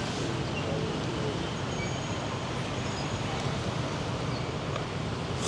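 Steady street and traffic noise with a low hum, and a short hiss at the very end.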